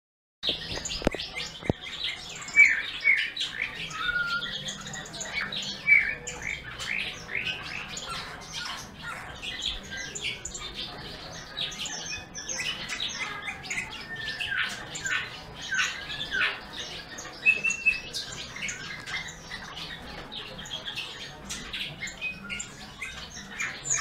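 Songbirds singing: a dense, continuous run of quick high chirps and short falling whistles, starting about half a second in.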